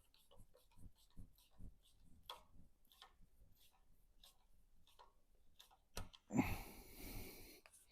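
Faint, irregular clicks and taps of hand tools and engine parts being handled, with a louder scraping rustle lasting about a second and a half near the end.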